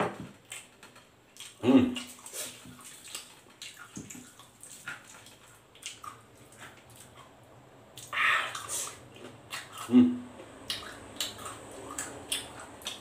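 Close-miked chewing and lip-smacking of fried chicken and rice eaten by hand: irregular wet mouth clicks and smacks throughout, with a louder burst about eight seconds in.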